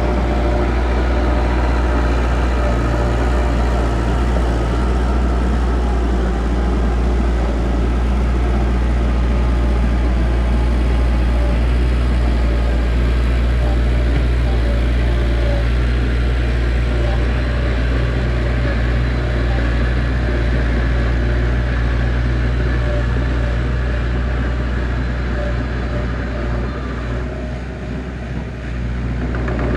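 Heavy diesel engine of an earthmoving machine running steadily, a deep continuous drone that eases slightly near the end.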